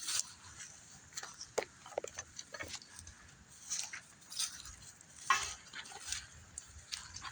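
Scattered light rustles and short clicks, coming irregularly.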